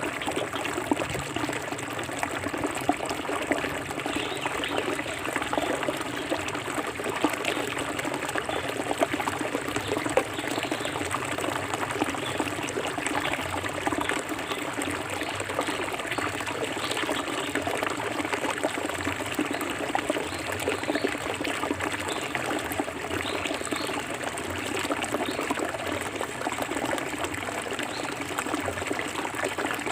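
Forest river water flowing steadily, an unbroken rush dotted with many small trickles and splashes.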